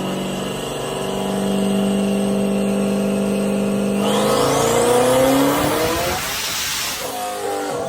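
1209 hp C8 Corvette engine on a chassis dyno, running at a steady speed for about four seconds, then pulled hard: revs climb with a high rising whine and a loud rush of noise, dropping off again near the end.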